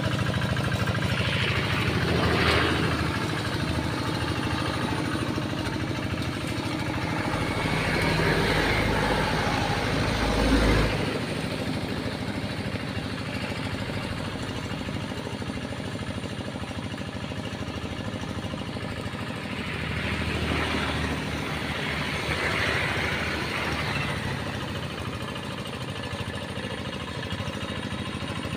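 Tractor engine running steadily while ploughing a rice paddy. It swells louder several times, most around ten seconds in, as the tractor comes near and moves away again.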